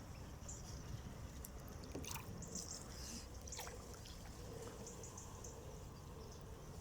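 Faint quiet ambience with a few short, high-pitched chirps and a couple of soft clicks.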